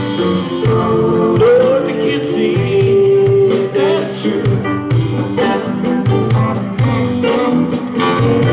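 A live rock band playing: electric guitars, keyboards, bass and drums.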